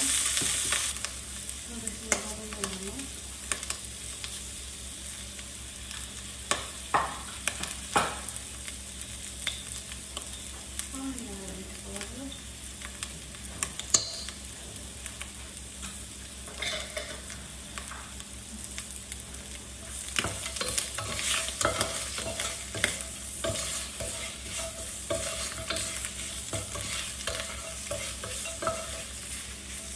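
Morel mushrooms and whole spices sizzling in hot fat in a saucepan, stirred with a wooden spatula that knocks and scrapes against the pan now and then.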